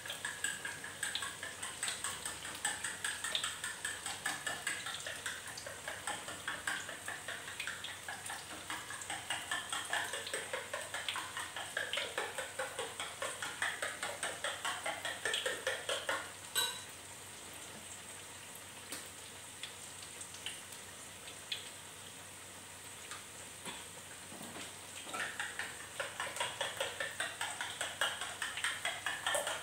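Corn fritters frying in oil in a wok, sizzling, while a spatula works against the wok in quick repeated strokes. About halfway there is a sharp click, the strokes stop for several seconds leaving only quieter sizzling, then they resume near the end.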